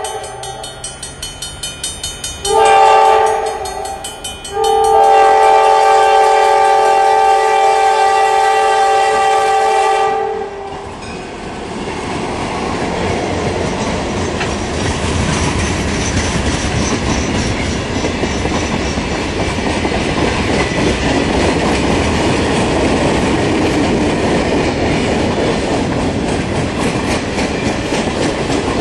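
EMD GP9 diesel locomotive's air horn sounding a short blast and then a long one of about six seconds, the close of a grade-crossing signal. Then a freight train of loaded cars rolls past, its wheels clacking over the rail joints in a steady rumble.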